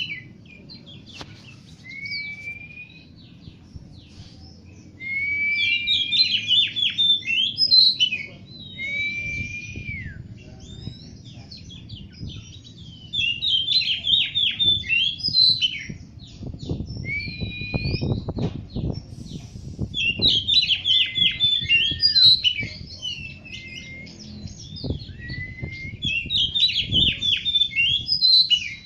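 Oriental magpie-robin (kacer) singing: loud bouts of rapid, varied chattering notes every few seconds, with clear single whistles rising and falling between them. A faint low rumble runs underneath, strongest about two-thirds of the way through.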